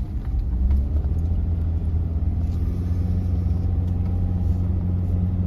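Car driving slowly, heard from inside the cabin: a steady low engine and road hum.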